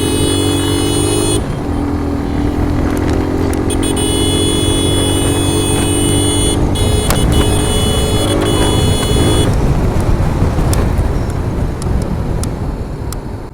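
Motorcycle running on the move through town traffic: steady engine note over road and wind noise, which drops away abruptly near the end.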